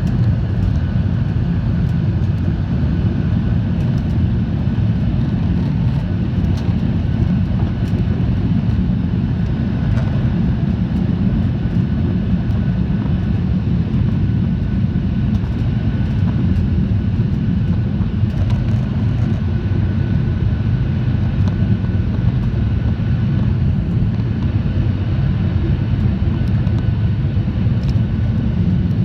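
Boeing 737-800 climbing after takeoff: a steady, loud, low roar of its CFM56 jet engines and airflow, with faint steady whining tones over it.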